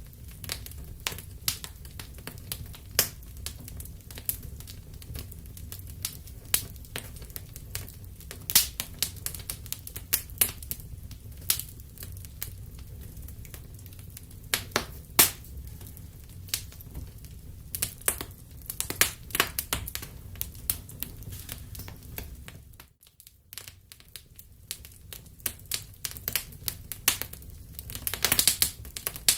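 Wood fire in a fireplace crackling, with irregular sharp pops over a steady low rumble of the flames. The sound drops out briefly about two-thirds of the way through, and a quick flurry of pops comes near the end.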